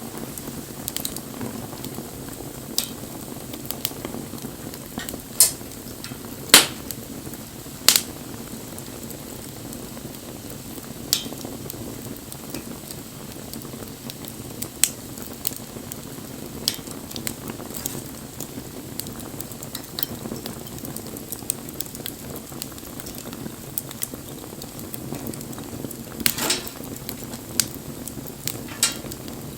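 Wood campfire burning with a steady hiss and scattered sharp crackles and pops, the loudest pops a few seconds in and a quick run of them near the end.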